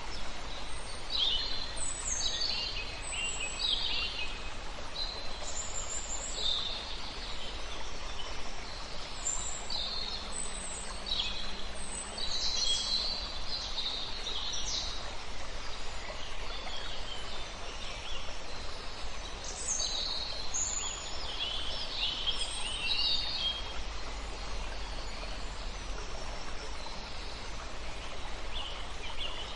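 Several songbirds singing and chirping, many short quick calls and trills overlapping, over a steady background hiss of flowing river water.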